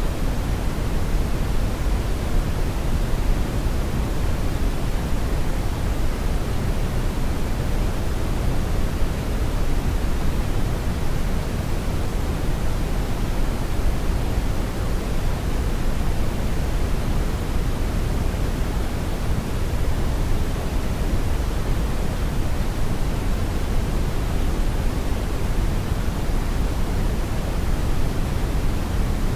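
Steady brown noise: a deep, even hiss, strongest in the bass, with no changes.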